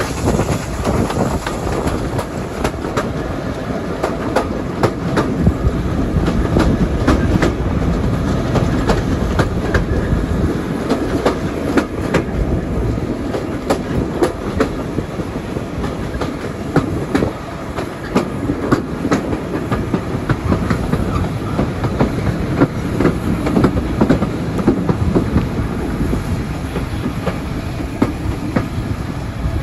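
Train of heritage railway carriages running at speed, heard from beside the coach side: a steady rumble with irregular clicks of the wheels over the rail joints.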